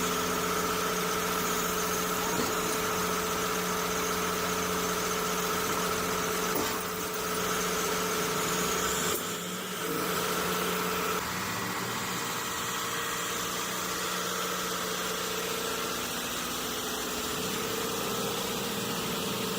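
Heavy engine running steadily at a low, even pace, with a brief dip about halfway through and a slight change in tone a little later.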